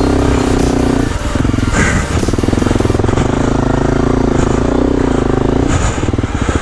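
Honda CRF250L dirt bike's single-cylinder four-stroke engine running under throttle while being ridden. The revs dip briefly about a second in, then rise and fall again further on.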